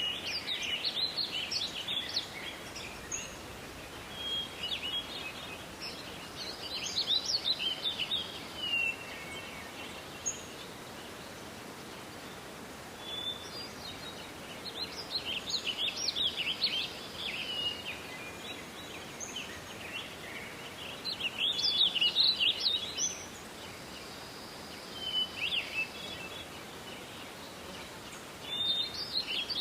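Songbirds singing in a forest: short, high, twittering song phrases every few seconds, over a steady soft background hiss.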